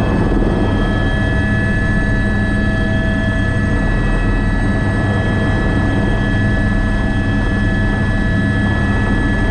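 Airbus AS350B3 (H125) helicopter's Arriel 2 turboshaft and rotor running steadily in flight: a constant high whine over a low, dense rotor drone.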